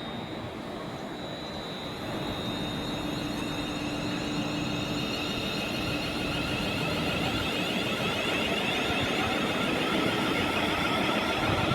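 A train approaching on the main line: a steady rumble with a high whine and several held tones, growing steadily louder.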